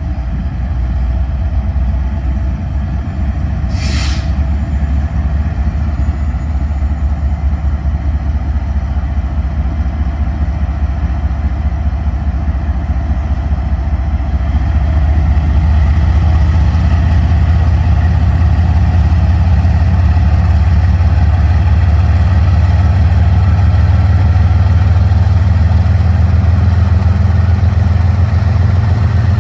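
GE diesel-electric freight locomotives, an ES44DC and a C44-9W, throttling up to restart a train: a steady low diesel drone that grows louder about halfway through as the engines load up. A short hiss of released air comes from the train's air brakes about four seconds in.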